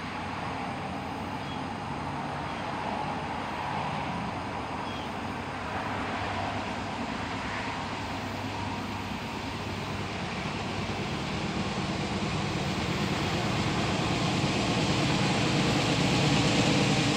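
Diesel freight locomotive approaching, its engine running with a low drone under a broad rumble that grows steadily louder.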